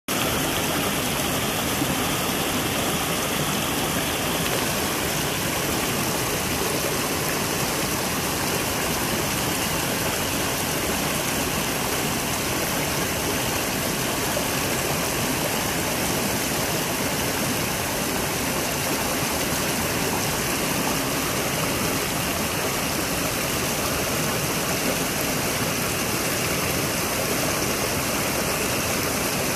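Rushing water: a loud, steady roar of a creek or waterfall with no change throughout.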